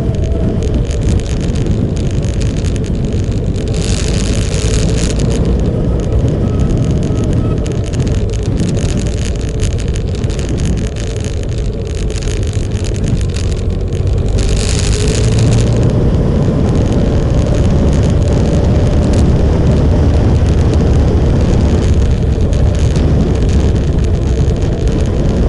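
Motorcycle on the move: engine running with heavy wind rumble on the microphone, the engine pitch drifting slowly up and down. Twice a brief hiss rises over it.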